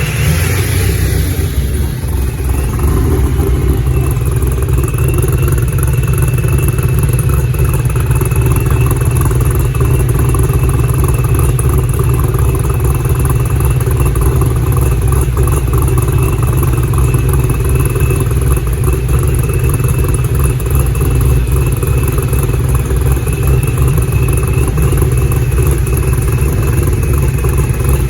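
A car's engine and road noise at a steady cruise: a loud, even low drone with a thin, steady high whine above it, shifting briefly in the first two seconds and then holding unchanged.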